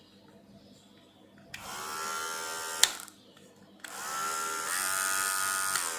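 Electric hair trimmer's small motor switched on, humming and rising in pitch as it spins up, cut off with a sharp click, then switched on again and running, stepping up in pitch partway through. The repaired trimmer is running under power.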